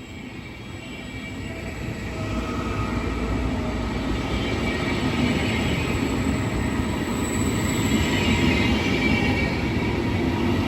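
A train running through a station, growing louder over the first few seconds as it approaches, then a steady rumble of wheels on rails as it passes close by.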